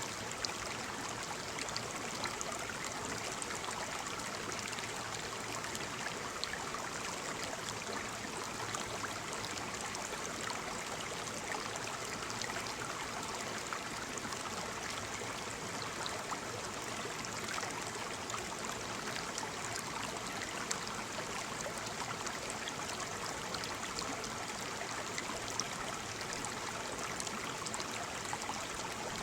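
Waterfall water falling and splashing in a steady, unbroken rush, with small splashes ticking through it.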